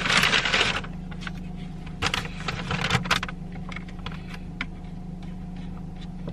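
Steady low hum of a car cabin, with a burst of rustling in the first second and scattered small clicks and rustles.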